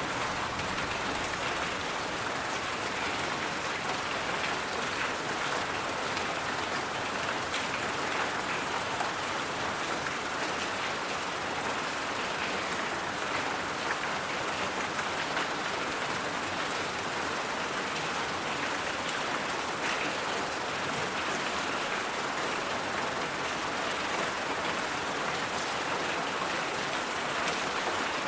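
Steady, unchanging hiss of a white-noise track, an even rushing noise with no rhythm or separate events, strongest in the middle-high range.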